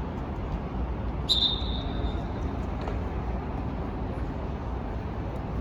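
A referee's whistle blown once, a short high blast about a second in that fades quickly, over a steady low rumble of outdoor noise.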